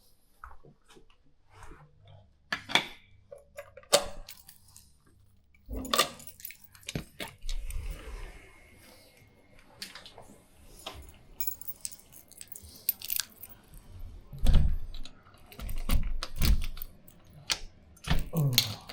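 Jangling keys and handling noise: scattered clicks, rustles and knocks as gear is handled, with a few heavier thumps in the last few seconds.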